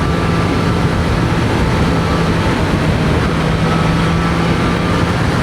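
Steady wind rush at highway speed, about 75 mph, picked up by a microphone inside a motorcycle helmet, with the even drone of a Triumph Street Triple 765 RS's three-cylinder engine cruising in fifth gear underneath.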